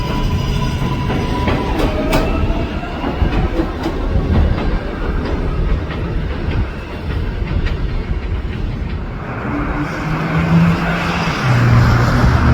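A 7 subway train running on the elevated Flushing Line track, its wheels clattering steadily on the rails. From about nine seconds in a hiss builds up, with a low hum near the end.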